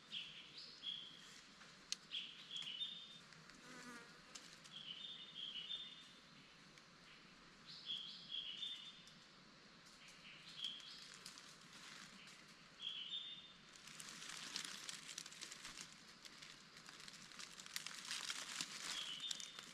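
A bird calling repeatedly in the jungle, a short high two-part phrase every second or two. About two-thirds of the way through, a rustling, crackling noise starts and continues alongside the calls.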